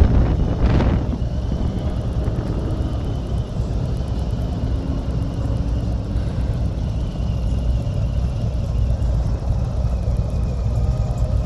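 A motorcycle riding along: a steady low engine and road rumble mixed with wind on the microphone, gustier in the first second.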